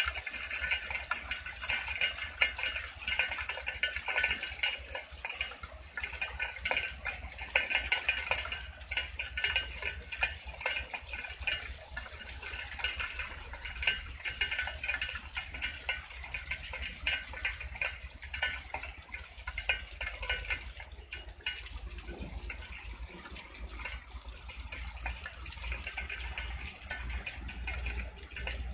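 Rain falling, with a steady, irregular patter of many drops ticking and dripping.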